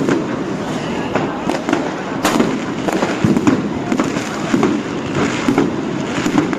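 New Year's Eve fireworks and firecrackers going off all around: many sharp bangs and cracks at irregular intervals, some close and loud, others overlapping in the distance, with voices under them.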